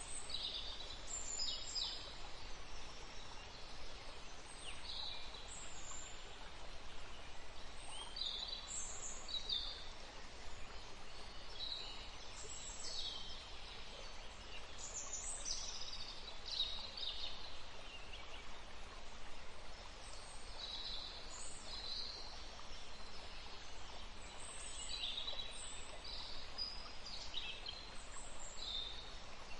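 Forest bird chorus: several birds chirping and calling in short, high notes, one every second or so, over a steady background hiss.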